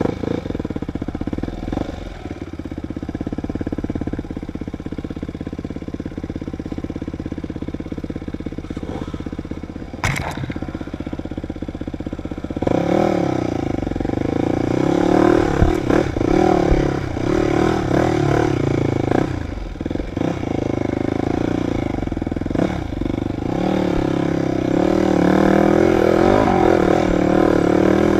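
Dirt bike engine running at steady, even revs, with a single sharp knock about ten seconds in. Then it gets louder, the revs rising and falling as the bike is ridden harder through the trail.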